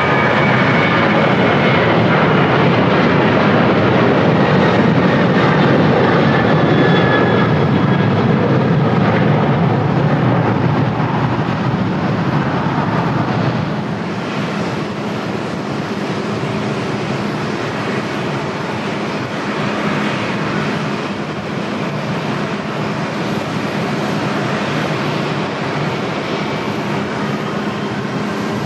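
Jet airliner engines running loud close by, with whining tones that fall in pitch as the aircraft passes; the sound eases off somewhat about halfway through.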